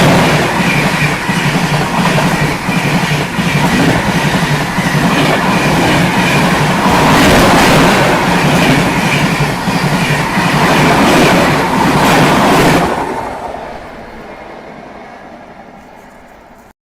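Indian Railways train passing close by at high speed, its wheels clattering rhythmically over the rail joints. About 13 seconds in the last coaches go by and the noise falls away fast, then cuts off abruptly near the end.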